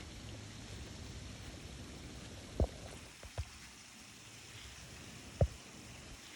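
Steady wash of water overflowing and running off a backyard pond after heavy rain, with three short dull thumps about two and a half, three and a half and five and a half seconds in.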